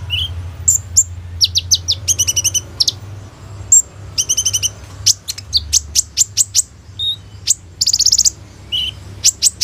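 Kolibri ninja, a sunbird (Leptocoma sperata), singing a rapid, varied song of sharp high chirps and quick rattling trills, with short pauses between bursts and mimicked phrases of other birds woven in.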